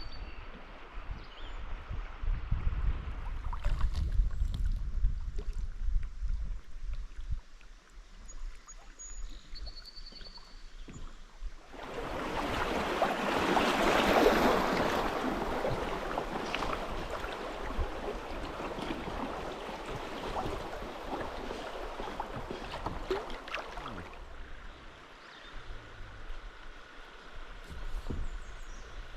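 Rushing river water around a kayak running a riffle: the rush swells up about twelve seconds in, peaks and fades away about twelve seconds later. A low rumble, like wind on the microphone, fills the first few seconds.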